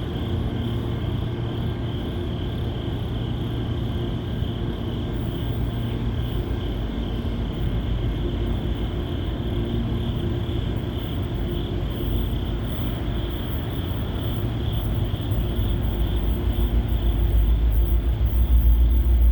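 Freight train hauled by CN SD70M-2 and SD40-2W diesel locomotives going by: a steady diesel drone with rolling rumble, the low rumble growing louder over the last few seconds.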